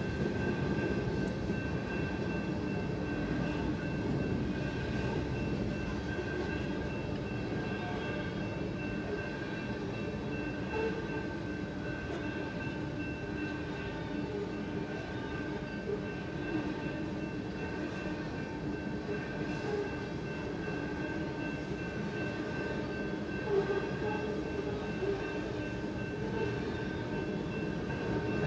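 Coal train hopper cars rolling steadily past a railroad grade crossing, heard from inside a car, with a steady high tone over the rumble.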